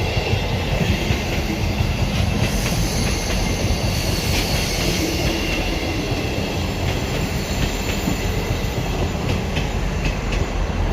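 Class 159 diesel multiple unit running into the platform: a steady rumble of engine and wheels, with scattered clicks from the rails.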